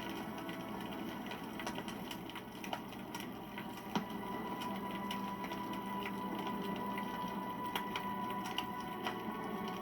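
Wood fire burning, crackling with many small irregular pops over a steady low rush, with one sharper pop about four seconds in.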